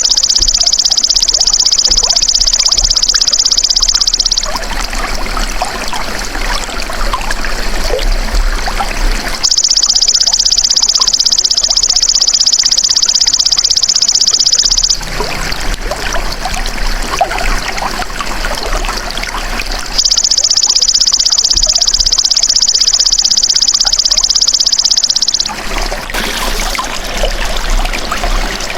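A belalang emas (golden grasshopper) insect calls in long, high-pitched, rapidly pulsed buzzing trills of about five seconds each, three times with pauses of about five seconds between. Running water trickles steadily underneath throughout.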